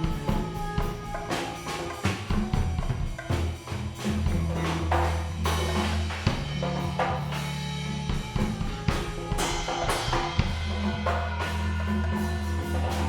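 Live band playing an instrumental passage: a drum kit with kick, snare and rimshot hits over a sustained bass line and pitched instruments.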